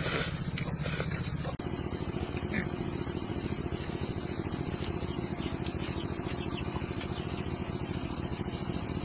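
A small engine running steadily with a fast, even chug, its note shifting abruptly about one and a half seconds in.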